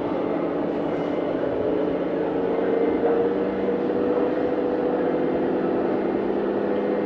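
Radio-controlled model truck's electric drive motor and gearbox running as a steady whine, rising slightly in pitch about two to three seconds in and then holding.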